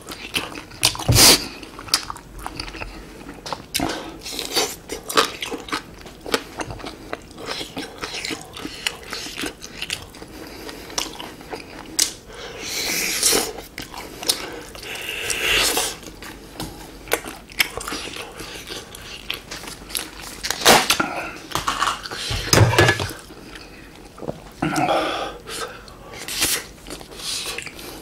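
Close-up mouth sounds of chewing and biting grilled chicken skewers (dakkochi): many small wet clicks and smacks, with a few louder spells of chewing now and then.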